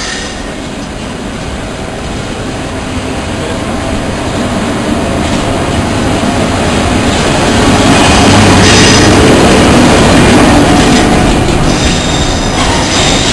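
A train moving along the station platform, growing steadily louder over the first eight seconds and then staying loud, with a few clicks from the wheels over the rail joints.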